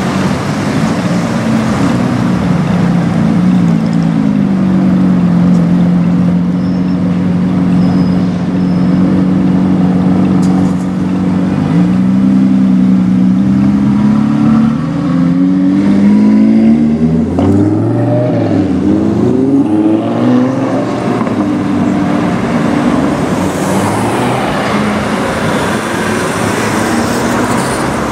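Lamborghini supercar engines, led by an Aventador SVJ's V12, running steadily at low revs, then revving up in several rising sweeps with gear changes as the cars pull away, about halfway through. A plainer traffic noise follows near the end.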